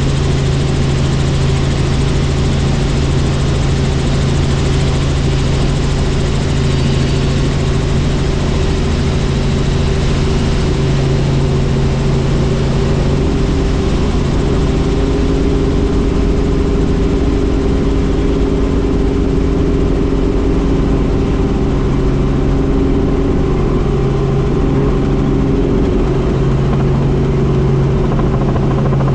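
Helicopter engine and rotor running steadily, a constant loud drone with a steady low hum.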